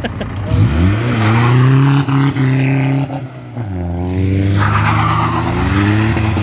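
Car engines accelerating hard as cars pull away. The revs climb and hold high with brief dips, fall off about three and a half seconds in, then climb steadily again.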